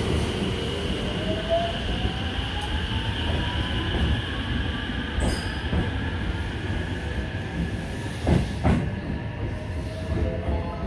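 Panda Kuroshio electric limited express train pulling out along the platform: a steady rumble of wheels on rail under a whine that rises in pitch as it accelerates. Two sharp clacks come from wheels crossing rail joints about eight seconds in.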